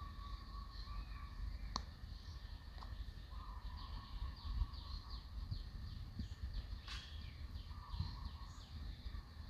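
Small birds chirping in quick high downward notes, a rapid run of them in the middle, over a steady low rumble of wind on the microphone, with a couple of sharp clicks.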